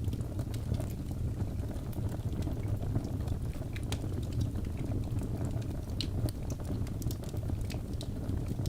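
Birch logs burning in a fireplace: a steady low rumble of flames with frequent sharp crackles and pops scattered throughout.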